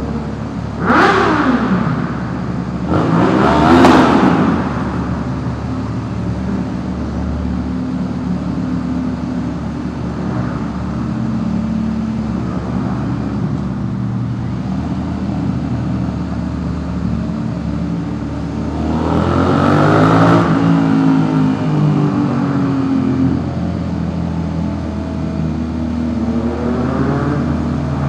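Suzuki SV650S V-twin engine through a Delkevic 200mm stubby exhaust, deep-toned, ridden and revved hard in a road tunnel. Two sharp rev blips come about a second and four seconds in, then it runs steadily, with another rise and fall in revs about two-thirds of the way through.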